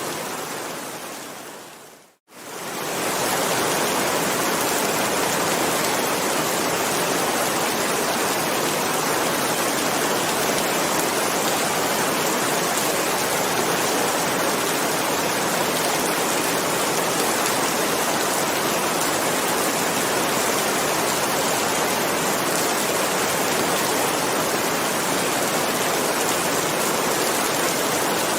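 Steady, dense rain. About two seconds in it fades out to a moment of silence, then fades straight back in: the join where the recording loops.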